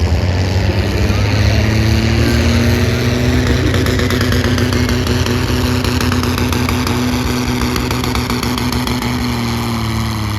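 Farm tractor engine running hard under full load, pulling a weighted sled in a tractor pull. It holds a steady, heavy note, and the pitch sags near the end as the tractor slows.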